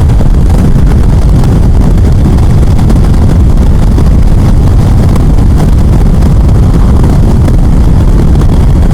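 Loud, steady wind rush on the rider's microphone on a Yamaha FJR1300 motorcycle at highway speed, really high because of a cut-down short windshield.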